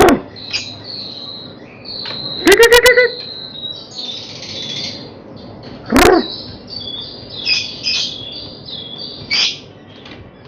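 Several white-rumped shamas (murai batu) chirping and whistling in short high phrases. Three louder harsh calls cut through: a downward-sliding squawk at the start, a fast rattle of about five notes a few seconds in, and another downward-sliding squawk about six seconds in.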